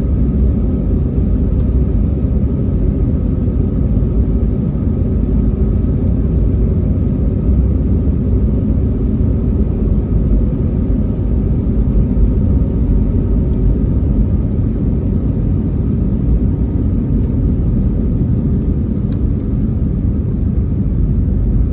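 Airbus A321neo cabin noise in the takeoff climb: a loud, steady low rumble of the engines and rushing air, with faint steady tones above it.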